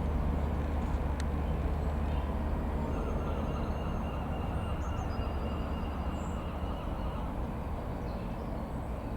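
Piper PA-28-161 Warrior II's single four-cylinder Lycoming piston engine droning steadily overhead, slowly fading as the plane moves away. Birds chirp faintly in the background.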